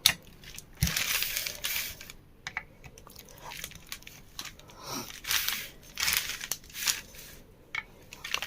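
Screwdriver tightening the screws on a ceiling fan's housing by hand: light clicks and short scraping rustles in a few spells.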